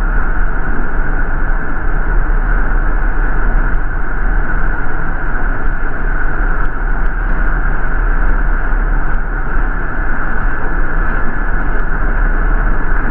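Steady engine rumble and constant hiss inside the cabin of an MTA city bus.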